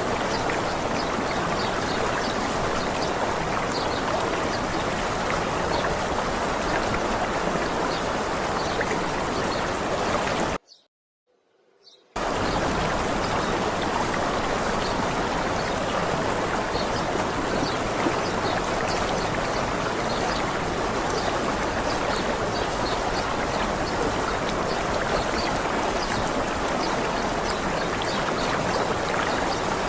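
Waterfall water pouring steadily, with faint high bird chirps over it. The sound cuts out completely for about a second and a half, about a third of the way through, then returns.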